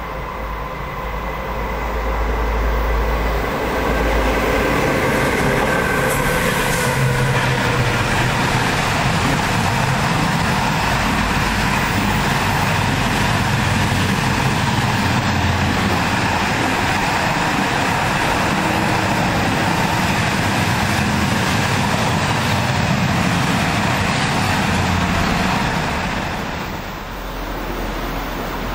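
Electric-hauled rolling-highway freight train, lorries carried on low-floor wagons, passing close by. It builds up as the locomotive arrives, with steady whining tones that fade within the first several seconds. Then the wagons run past in a loud, even rolling noise for about twenty seconds, dropping away as the end of the train goes by near the end.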